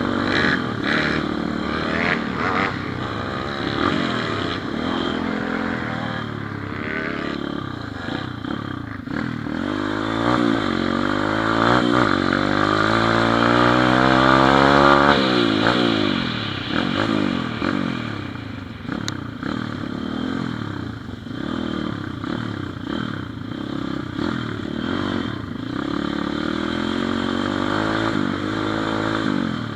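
Pit bike's small single-cylinder four-stroke engine running under way, revving up and easing off through the gears. The pitch climbs steadily from about ten seconds in to a peak around fifteen seconds, then falls back.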